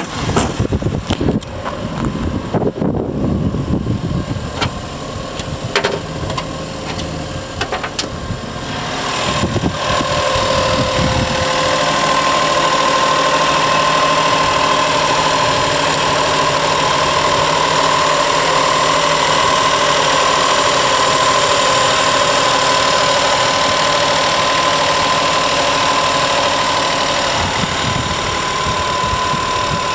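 Honda Acty mini truck's three-cylinder engine. Scattered knocks and clicks come first, then from about ten seconds in the engine runs steadily at idle with a steady whine over it.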